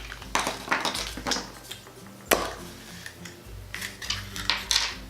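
Hard plastic clicks and rattles from a Kinder Surprise egg's toy capsule being opened, with one sharp click about two seconds in.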